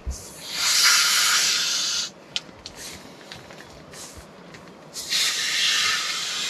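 Two long breaths blown into the mouth-inflation valve of an inflatable sleeping pad, each a rush of air lasting about a second and a half, with a few small clicks in the pause between.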